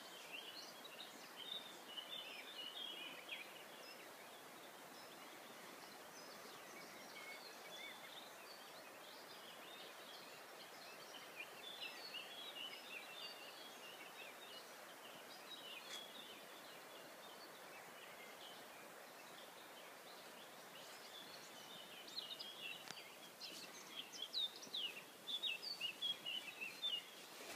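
Small birds chirping and singing in quick, scattered notes over a faint steady outdoor hiss, busier at the start and again near the end.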